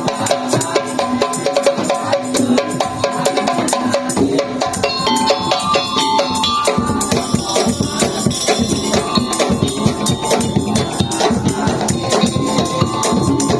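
Madurese tong-tong (daul) percussion ensemble playing a fast, dense rhythm on wooden slit drums and drums, with pitched melodic tones over it. Deeper drum beats join about halfway through.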